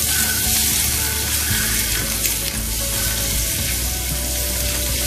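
Whole boiled eggs sizzling steadily in hot oil in a nonstick frying pan, with a slotted spatula turning them in the pan.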